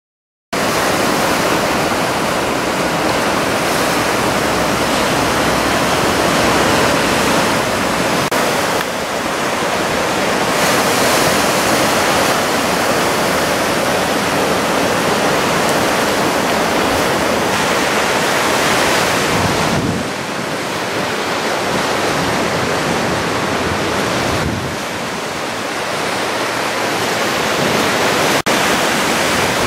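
Waist-high typhoon swell breaking on the shore: a continuous rushing wash of surf that swells and eases several times, dipping briefly about two-thirds of the way through.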